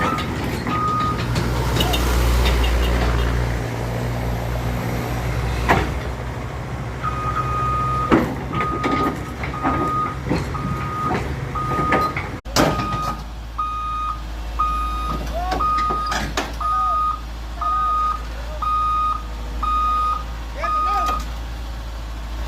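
Excavator's diesel engine running steadily, with its travel alarm beeping about once a second from about a third of the way in, plus a few scattered knocks.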